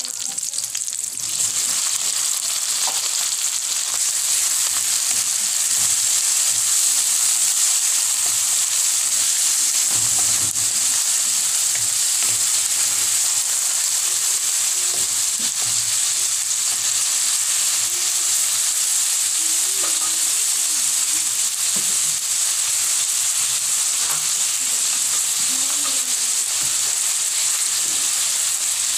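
Chopped tomatoes, onion and garlic sautéing in hot oil in a wok: a steady sizzle, with a wooden spatula stirring and scraping now and then. The sizzle swells about a second and a half in.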